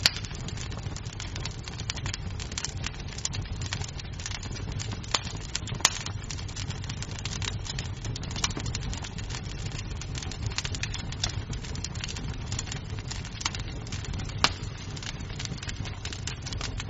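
Wood fire crackling in a fireplace: a steady low rumble of burning under a dense stream of small crackles, with a few sharper pops of snapping wood.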